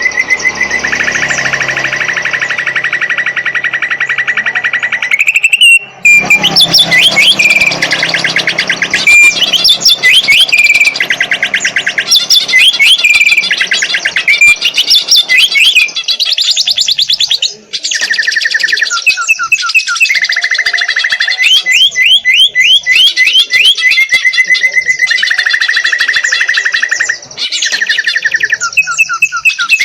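Cucak ijo (green leafbird) singing without pause: fast rapid-fire trills and chattering phrases of rising and falling whistles, broken by brief gaps about six, eighteen and twenty-seven seconds in.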